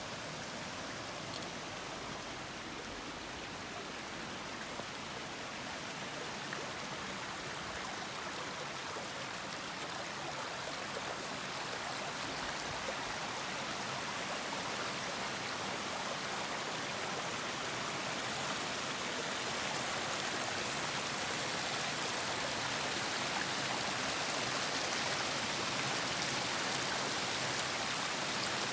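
River water rushing steadily where it runs into the ocean, growing gradually louder.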